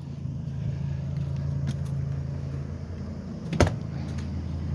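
A vehicle engine idling with a steady low hum, with one sharp click a little over halfway through.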